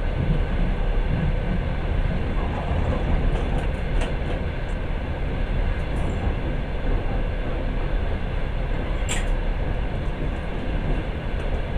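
Passenger train running at speed, heard from inside the carriage: a steady low running noise of wheels on rails, with a brief click about nine seconds in.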